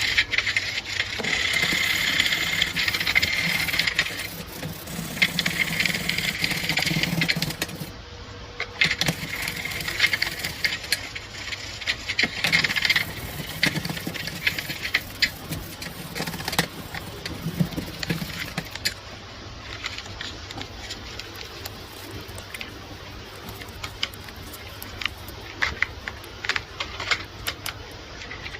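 Scraping on metal in three long strokes of a few seconds each, then scattered small metallic clicks and clinks as parts are handled.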